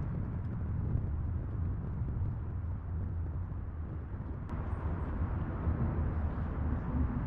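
Steady low outdoor rumble under a faint hiss, with a single short click about four and a half seconds in.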